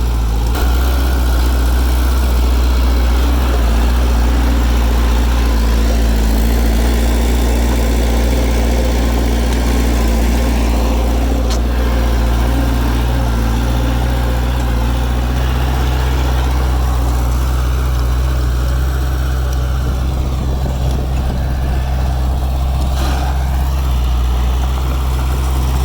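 Heavy-equipment diesel engine running steadily, with a deep, even low drone and no big changes in speed.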